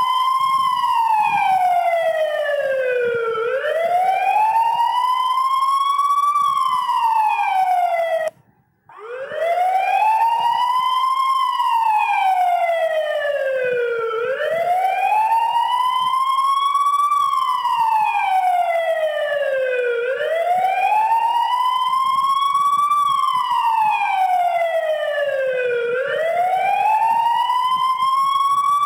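Police siren sounding a slow wail: each cycle climbs over about three seconds and falls back over about three seconds, repeating steadily. It cuts out for about half a second a little after eight seconds in, then starts again.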